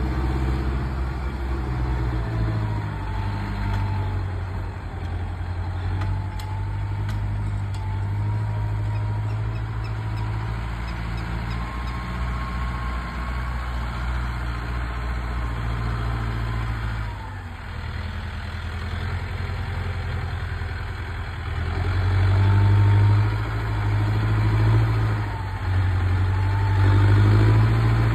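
Tractor engine running steadily, its low drone shifting with load and growing louder about two-thirds of the way through.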